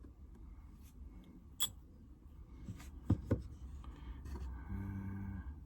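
Metal-on-metal handling of a silver coin ring blank and workbench tools: a sharp metallic click, then two knocks about a second and a half later. A short low hum follows near the end.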